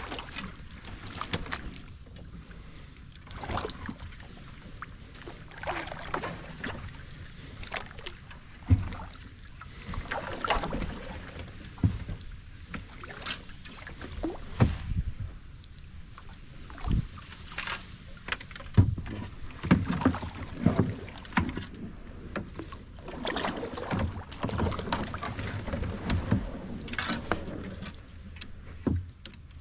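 Kayak being paddled: irregular swishing paddle strokes in the water, with several sharp knocks.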